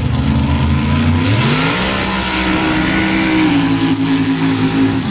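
Truck engine at a sand drag race revving up about a second and a half in and holding at high revs, dipping slightly in pitch a little past three seconds, then cutting off abruptly.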